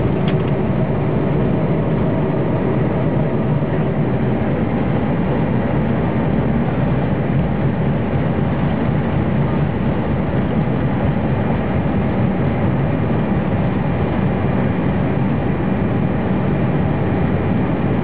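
Steady, loud noise inside a Boeing 747 cockpit from the aircraft's engines and its movement, an even rumble that does not change in level.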